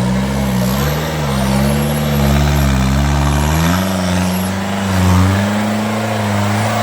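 Off-road vehicle engine running under load, its pitch wavering up and down as the throttle is worked.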